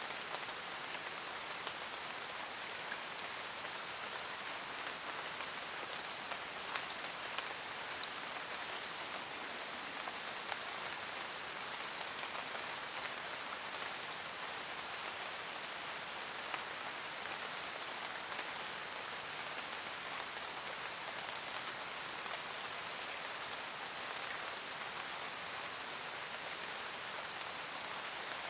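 Steady forest rain: an even hiss of rainfall with scattered single drops ticking through it.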